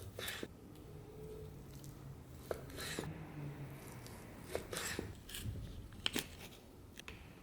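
A handful of short, crisp cutting or tearing strokes with a few light clicks, spaced roughly a second apart.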